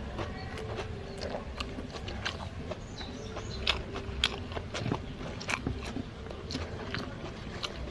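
Close-up chewing of a mouthful of fried rice with the mouth partly open: irregular wet clicks and smacks, a few every second.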